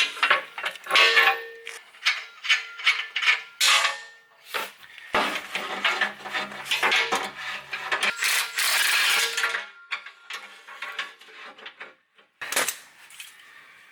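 Hand tools clinking and scraping on metal in an irregular run of clanks and rattles, the sound of wrenching loose the exhaust bolts on a muffler.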